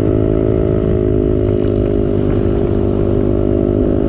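Motorcycle engine running at a steady pace while riding, its pitch holding even.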